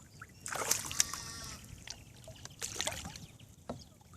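Water splashing and knocking in a small boat as a big catfish is brought in, with a loud burst about half a second in and a shorter one near three seconds.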